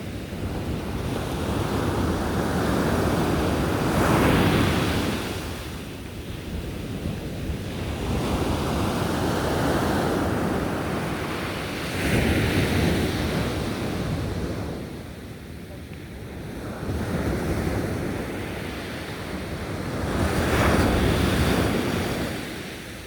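Sea waves breaking on a beach, five surges in turn about every four seconds, each swelling to a crash and then washing back.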